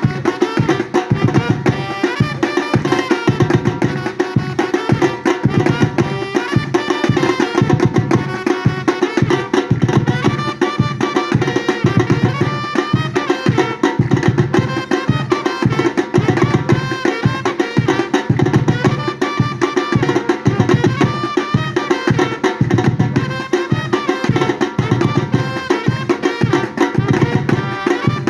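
Batucada percussion music: a drum ensemble playing a fast, steady, driving rhythm without pause.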